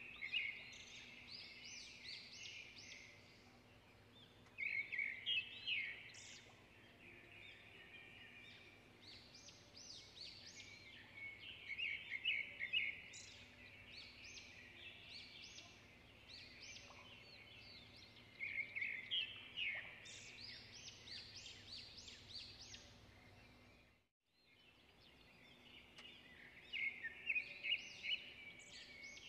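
Small birds chirping in quick runs of short notes, one run every few seconds.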